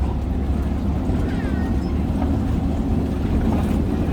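Safari ride truck driving along the reserve's rough track: a steady low engine and road rumble.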